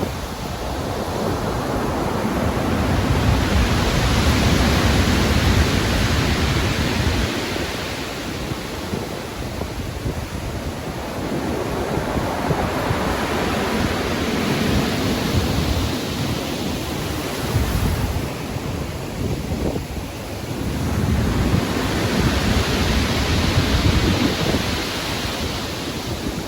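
Stormy sea: heavy ocean waves breaking and surging in long swells, with wind noise on the microphone.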